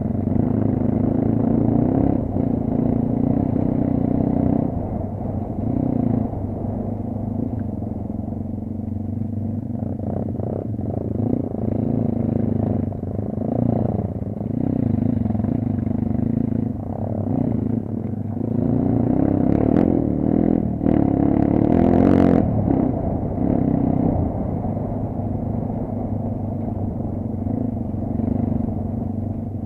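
Kayo off-road motorcycle engine running, its revs rising and falling repeatedly. A sharp clatter comes about two-thirds of the way through.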